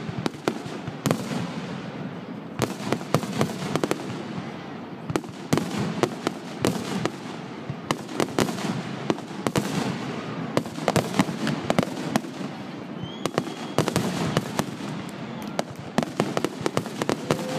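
Fireworks display: a continuous, rapid string of bangs and crackles from bursting shells, one after another without a break.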